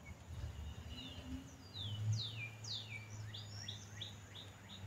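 A songbird singing a quick series of high, falling whistled notes, the first long and sweeping down, the later ones shorter and faster. A low steady hum runs underneath from about two seconds in.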